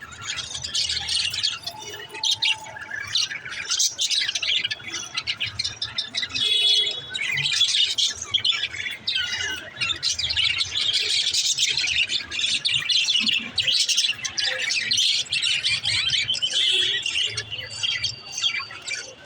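Budgerigar chattering and warbling, with rapid chirps and squawks throughout.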